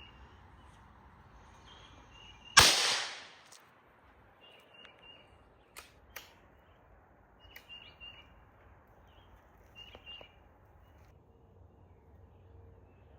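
A single gunshot about two and a half seconds in, its report dying away over about a second, with faint bird chirps in the quiet that follows.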